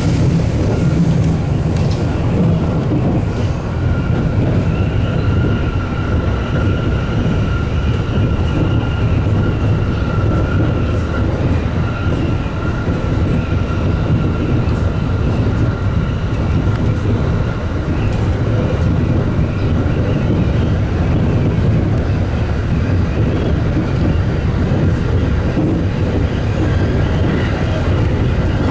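JR Takasaki Line local electric train running at steady speed: a continuous rumble of wheels on rail with a steady whine held over it and occasional faint clicks from the track.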